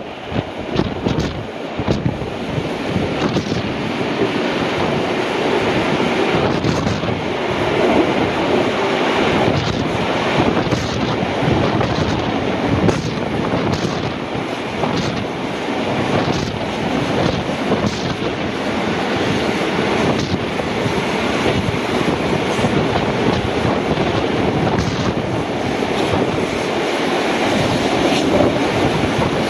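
Rush and rumble of two heritage passenger trains running side by side at speed on parallel tracks: steel wheels on the rails, with occasional clicks and knocks, and wind buffeting the microphone held out of an open carriage window.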